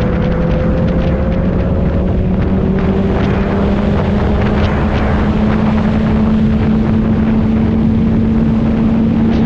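Motorcycle engine running under steady load while riding, its pitch slowly climbing as it gathers speed, with wind buffeting the microphone.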